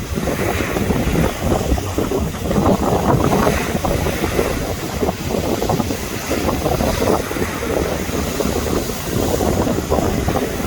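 Sea waves washing onto a beach, with strong wind buffeting the microphone in an unbroken rumbling roar.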